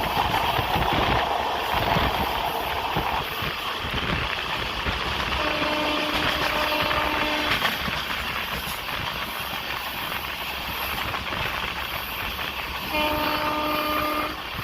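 Indian Railways passenger train running with a steady rumble and rattle, while a train horn sounds two held blasts, about five seconds in for two seconds and again near the end.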